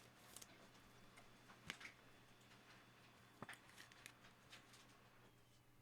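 Near silence with a handful of faint, sharp clicks and taps from trading cards and their plastic holders being handled on a table, over a low steady hum.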